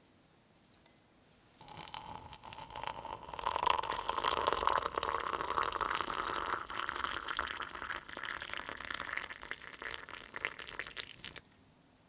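Water running or pouring into a container for about ten seconds, then stopping abruptly.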